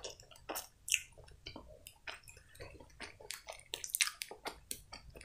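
A person chewing a chocolate-coated candy with a blackcurrant jelly filling: irregular short mouth clicks and smacks, busiest about three to four seconds in.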